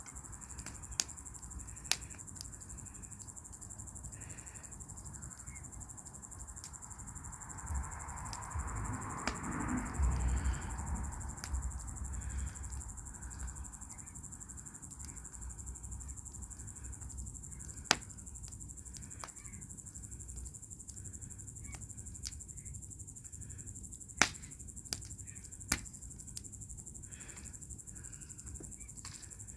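Wood fire in a fire bowl crackling, with scattered sharp pops, over a steady high chirring of crickets. A brief rushing swell with a low rumble rises and fades about eight to twelve seconds in.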